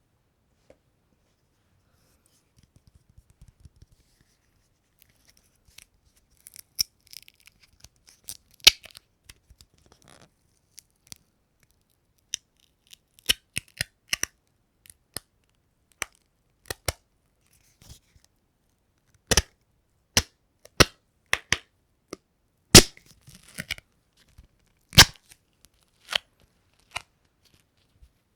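A sticky surface being pulled apart close to the microphone: irregular, sharp peeling clicks and crackles. They are sparse and faint at first and come more often from about six seconds in.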